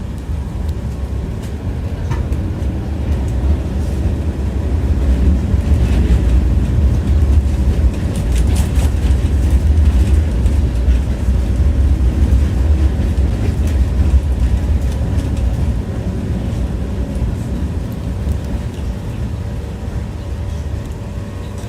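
Tram running along its rails, heard from inside the car: a steady low rumble with the ringing clack of the wheels over the track. It grows louder through the middle, with a run of sharp clicks about eight seconds in, then eases off near the end.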